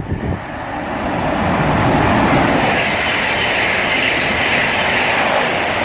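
Electric passenger train passing through the station at speed without stopping: a loud rush of wheels and air that builds over the first two seconds and then holds steady, with no horn sounded.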